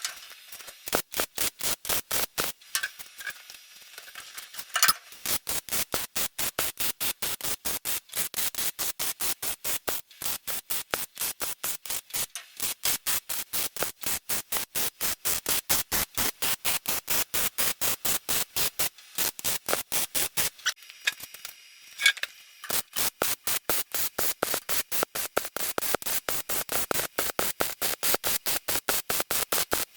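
Welding arc on the steel front suspension brackets, crackling in rapid even pulses several times a second, with a few short breaks between welds.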